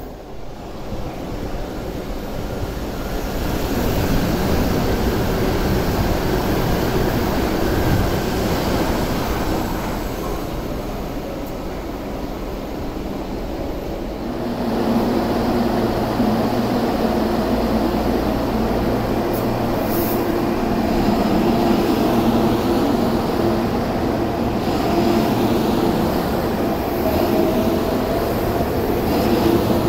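MTR electric train running along the tracks at the station, a continuous rumble of wheels on rail. After about 14 seconds a steady electric hum with a few held tones sits under the rumble.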